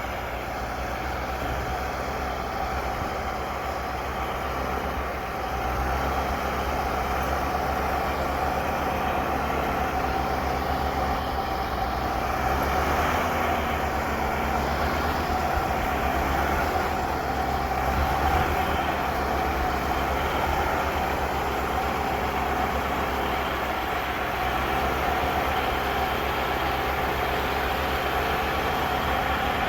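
Snow plow truck engine running steadily, a heavy continuous rumble with no break.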